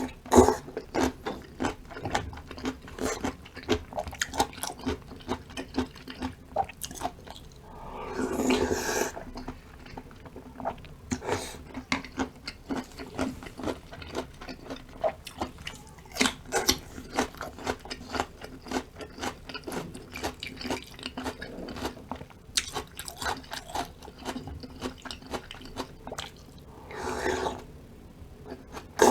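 Close-miked eating sounds: rapid wet chewing and crunching of food, with many short clicks and crackles, and two longer, louder stretches of noise, one about 8 seconds in and one near the end.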